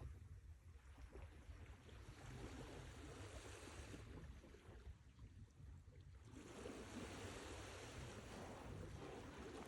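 Sea waves washing ashore, the hiss of water swelling and ebbing. A wave draws back at the start, a smaller surge follows, and a fuller wave comes in about six and a half seconds in.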